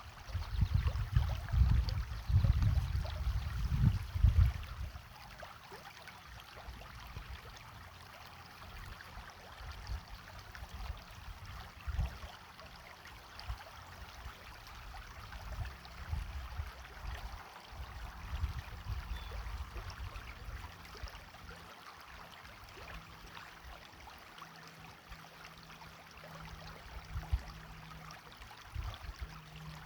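A small stream flowing and trickling over its bed, a steady water sound. Loud irregular low rumbles are heard in the first four seconds or so.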